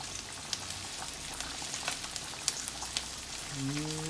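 Kale sizzling in a hot stainless skillet with bacon, onion and garlic: a steady frying hiss with scattered small pops as moisture steams out of the leaves.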